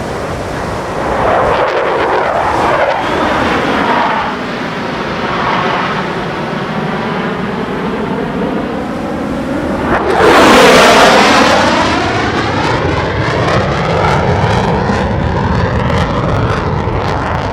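Jet noise from USAF Thunderbirds F-16 Fighting Falcons flying past, with the pitch sweeping as they pass. It swells early on and is loudest about ten seconds in, as a jet passes closest.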